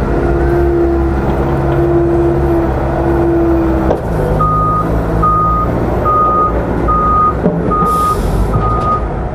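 A heavy vehicle's diesel engine running with a steady whine, then its reversing alarm starts beeping at an even pace, about one beep a second, as it backs up. A short hiss comes near the end.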